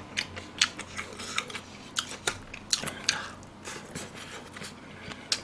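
Close-miked eating: a person chewing a mouthful of pork spine stew, with wet mouth noises and a run of irregular sharp clicks.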